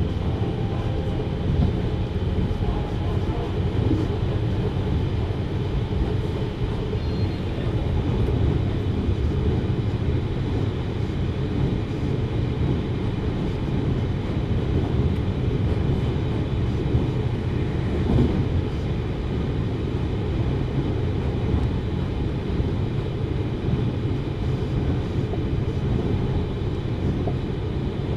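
Interior running sound of a JR Hokkaido 733 series electric multiple unit travelling at steady speed: an even, low-pitched rumble of wheels on the rails with no pauses.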